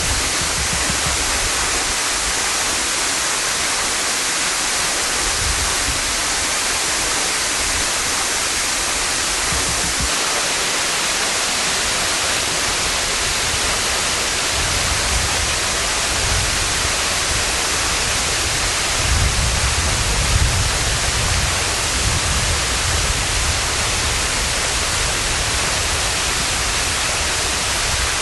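Waterfall, partly frozen in winter, with its falling water giving a loud, steady hiss. Low rumbles come and go, the strongest about two-thirds of the way through.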